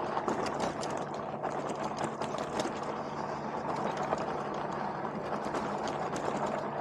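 Super73 electric bike rattling and clattering constantly as it rides over a rough, broken road surface, over a steady low hum.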